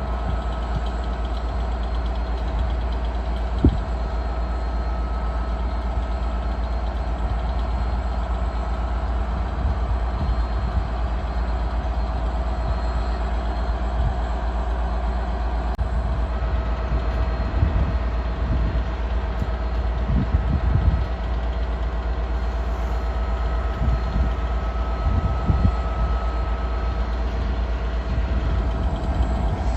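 A train standing idling, a steady hum over a low rumble.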